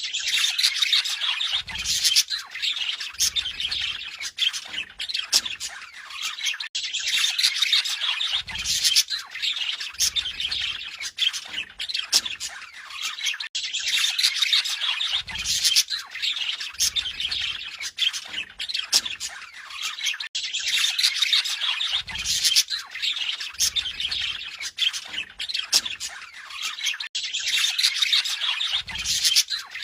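Budgerigars warbling and chattering with a continuous stream of quick chirps and squawks, in a pattern that repeats about every seven seconds.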